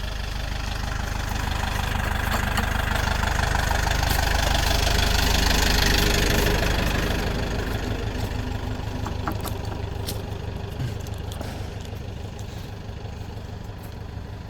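An engine running steadily, growing louder to about halfway through and then fading, as if the machine moves nearer and then away. A few light knocks come near the end.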